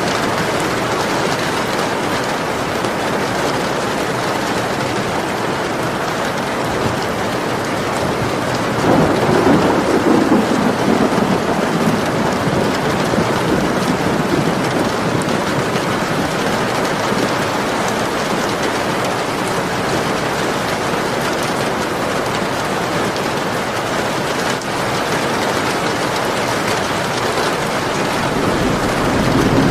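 Steady heavy rain falling, with a low roll of thunder swelling about nine seconds in and lasting a few seconds, and another beginning to rumble near the end.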